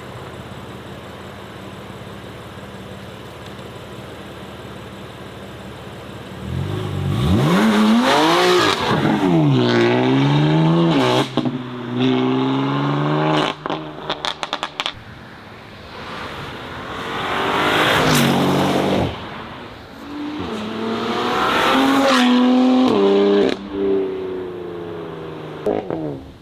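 Performance car engines accelerating hard away, twice: the revs climb and drop through several quick upshifts, with crackles and pops from the exhaust as the throttle closes. Before the first pull, about six seconds of low steady engine running.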